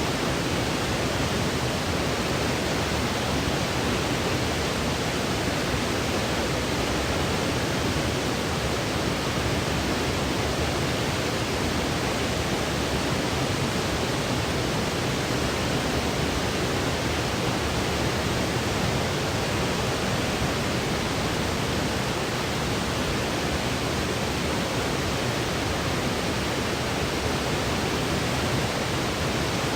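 Steady electronic white noise: a constant, even hiss with no changes.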